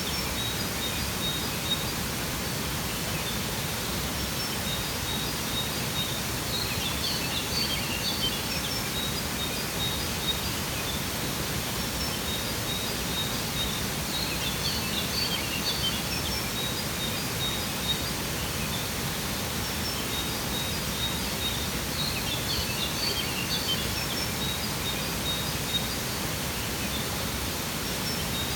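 Steady rush of a waterfall, with birds chirping in short clusters that come back about every seven seconds.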